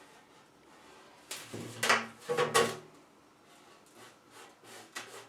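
Sheet-metal furnace duct pipe scraping and rattling as the sections are pushed together, with two loud scrapes near the middle and light taps near the end.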